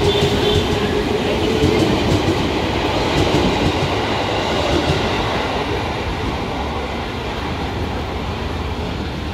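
KRL Commuter Line electric train running out along the platform, its wheels clicking over the rail joints under a faint motor hum. The noise eases off about six seconds in as the last cars pull clear.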